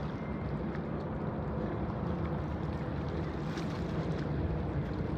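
Steady rumble of distant jet airliner engines, mixed with wind on the microphone; the level stays even, with no build-up or fade.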